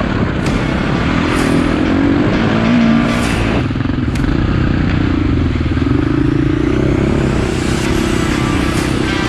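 Four-stroke dirt bike engine being ridden, revving up and down; the revs drop sharply about four seconds in, as when the throttle is closed or a gear is changed, then climb again. A few short clicks sit over it.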